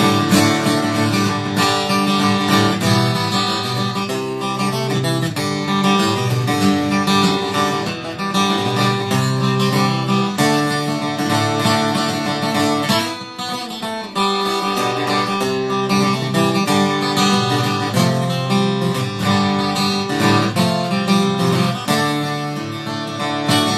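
Acoustic guitar playing an instrumental break in a folk song, picked and strummed, with a brief dip about thirteen seconds in.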